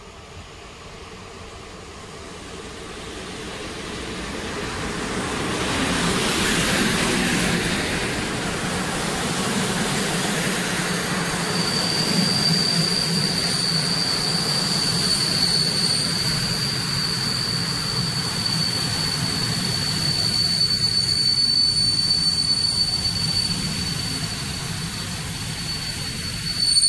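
PKP Intercity passenger train hauled by an electric locomotive approaching, growing louder over the first six seconds, then its coaches rolling past with a steady rumble and rail clatter. A steady high-pitched squeal joins about eleven seconds in and carries on as the coaches pass.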